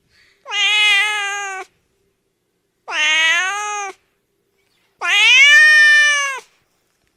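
A domestic cat meowing three times, long drawn-out calls with pauses between them, the last the longest.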